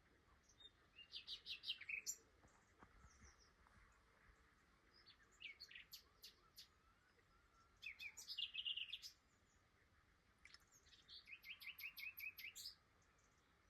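Common nightingale singing: four separate phrases, each a quick run of repeated notes, with pauses of a second or more between them.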